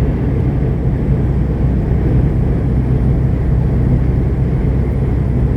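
Steady low drone of a semi truck's diesel engine with road noise, running evenly at highway speed.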